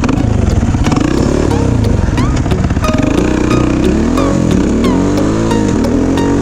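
Single-cylinder dirt bike engine under way, its pitch rising and falling again and again as the throttle is opened and eased off.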